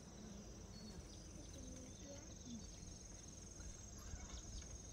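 Insects trilling steadily in one continuous high chirr, faint, with distant voices murmuring underneath.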